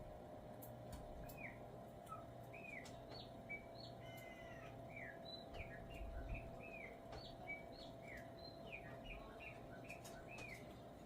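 A chopi blackbird singing its normal song: a faint run of short, curved, liquid whistled notes, one after another. A steady low hum runs underneath.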